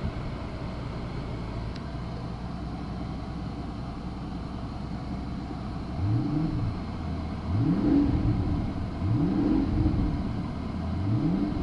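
The 2007 Mercedes-Benz CL600's twin-turbo V12 idles steadily, then is revved in park four times from about halfway through, each rev a short rising sweep that drops back to idle. It is heard from inside the cabin.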